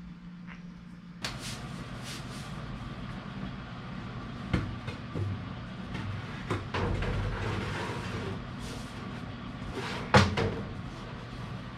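Knocks and clatter of hands-on installation work, the loudest knock about ten seconds in, over a steady background noise that starts about a second in.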